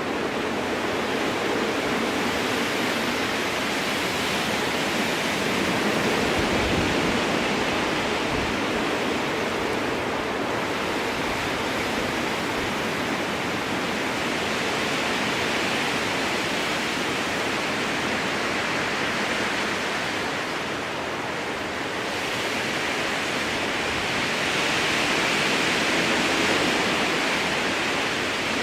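Strong wind rushing through conifer trees: a steady, even noise that swells and eases slowly in long gusts, a little louder about a third of the way in and again near the end.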